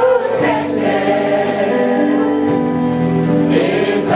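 Gospel choir singing a worship song with held notes, backed by music.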